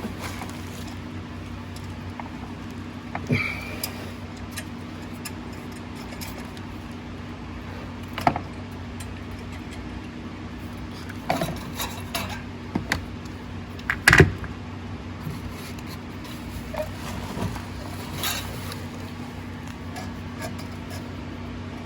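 Hand tools and metal engine parts clinking and tapping now and then during a diesel engine teardown, with a sharper cluster of clanks about 14 seconds in. A steady low hum runs underneath.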